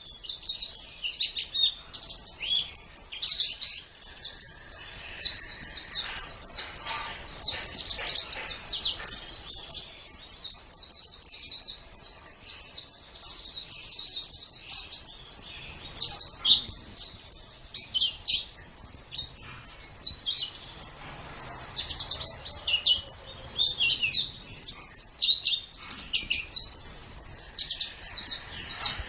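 White-eye (pleci) singing: a long, almost unbroken stream of rapid, high-pitched twittering notes.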